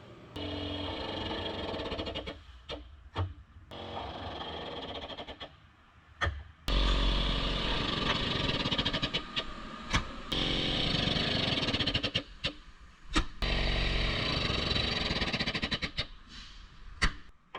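Self-piercing (punch) rivet gun running in about five runs of two to three seconds each, setting rivets that punch through the first panel layer and expand to join the two panels. Sharp clicks come between the runs.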